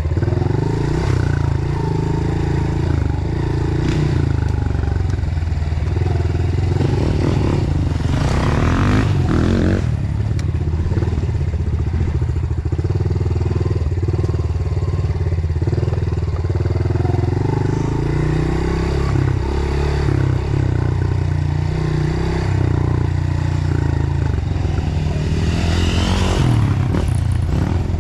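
Dirt bike engine running on a trail ride, its pitch rising and falling with the throttle, with two louder rushes of noise, about eight seconds in and near the end.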